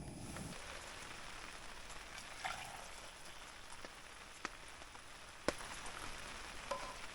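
Rain falling steadily, with scattered sharp taps of single drops landing close by, one louder tap about halfway through. A low rumble cuts off about half a second in.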